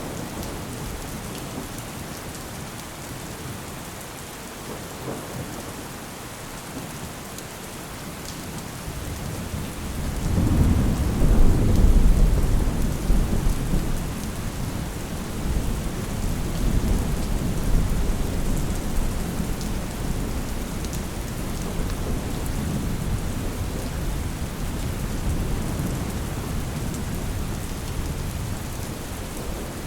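Steady rain falling, with a roll of thunder that rises about ten seconds in, peaks a couple of seconds later and rumbles away slowly.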